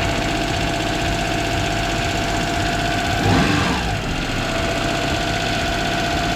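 Toyota Duet's petrol engine running at a steady high idle that does not change as its idle air control valve is turned. A brief louder sound about three seconds in.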